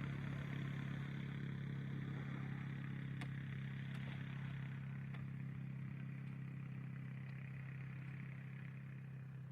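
A steady low engine hum that fades slightly, with a couple of faint clicks partway through.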